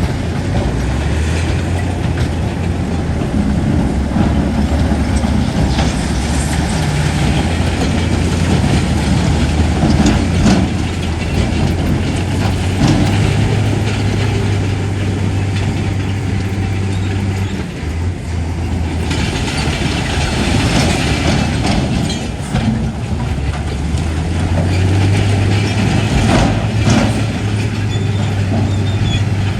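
Heavy diesel bulldozer working: a deep engine note that swells and eases with the load, over the clatter of steel tracks, with scattered knocks.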